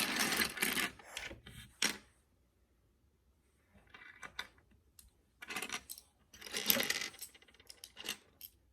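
Small plastic Lego pieces clattering and rattling as they are handled and spread out by hand, in several irregular spells with sharp clicks between, loudest at the start.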